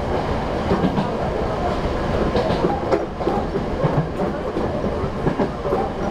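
Sangi Railway 751-series electric train running at speed, heard from inside the front of the car: steady wheel and running noise with irregular clicks as the wheels cross rail joints.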